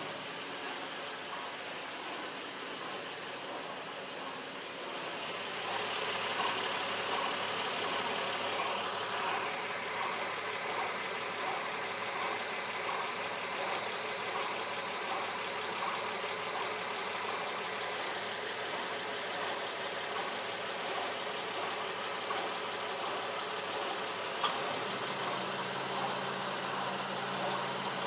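2010 Acura MDX's 3.7-litre V6 running with a regular, repeating chirp: the sign of a faulty timing belt tensioner, which was cured by replacing the tensioner and timing belt under TSB 08-031. A single sharp click sounds near the end.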